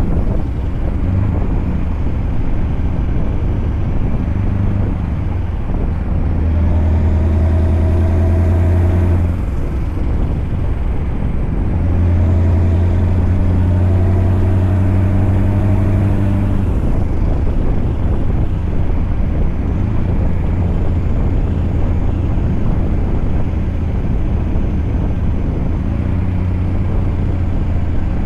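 Scania V8 truck engine running steadily, growing louder for two stretches of a few seconds.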